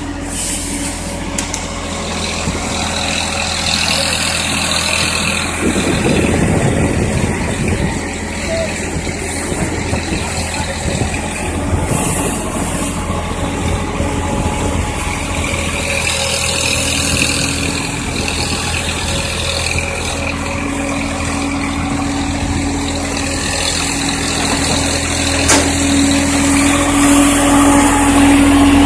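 Diesel engine of a Swaraj 960 tractor carrying a BULL backhoe loader, running steadily. Its note grows louder and stronger over the last several seconds.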